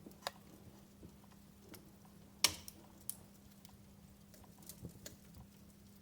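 Wood fire crackling in a fireplace: scattered small snaps and pops, with one louder pop about two and a half seconds in, over a faint steady hum.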